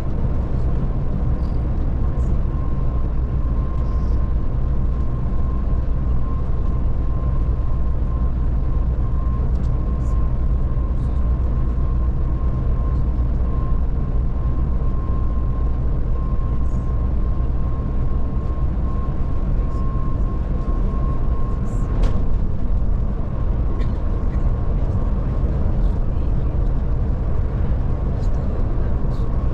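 Scania Touring coach driving on the road, heard onboard: a steady low engine and road drone with a thin, constant whine above it. A single sharp click about 22 seconds in.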